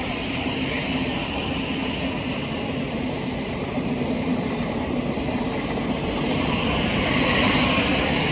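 A Class 700 electric multiple unit running past, a continuous rumble of wheels on rail with a steady low hum, growing louder in the last couple of seconds.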